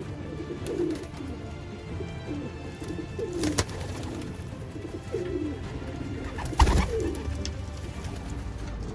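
Racing pigeons cooing repeatedly in low, rolling coos. Two sharp knocks cut in, the louder one about two-thirds of the way through.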